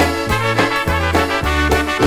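Old-time dance band playing an instrumental tune, with a bouncing bass beat about twice a second under horns and squeezebox-like chords.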